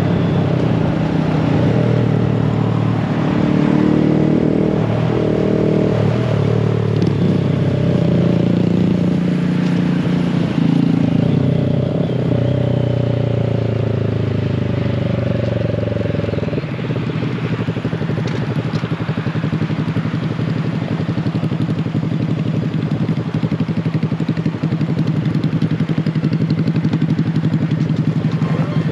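Small mini-bike motorcycle engines running while riding, their pitch rising and falling with the throttle. A little over halfway through, the sound settles into one engine idling steadily.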